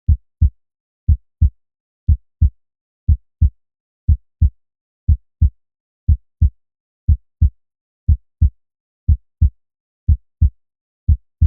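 Heartbeat sound effect: pairs of low thumps (lub-dub) about one beat a second, with dead silence between them.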